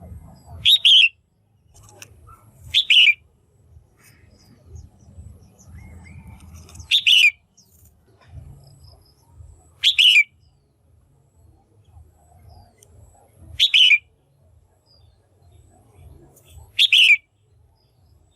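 Female red-whiskered bulbul giving six short, sharp calls a few seconds apart, over a faint low hum.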